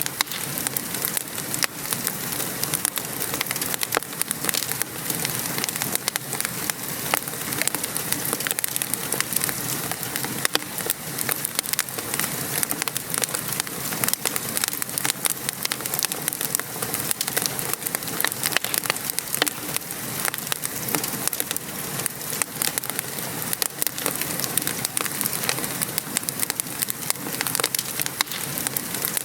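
Steady patter of rain mixed with the crackling and small pops of a wood fire burning in a fireplace.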